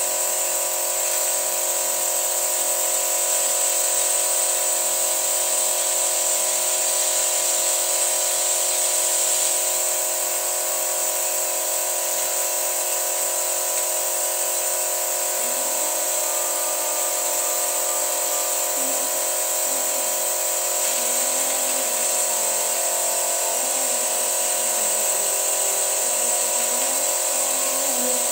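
Toyota petrol car engine running steadily at a raised speed while carbon cleaner is fed into it, with a steady high whine over the engine note. A faint wavering note joins about halfway through.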